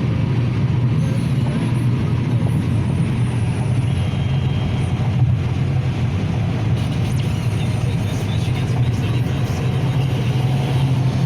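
Steady road and engine noise heard from inside a car's cabin at highway speed, a constant low hum with tyre rush.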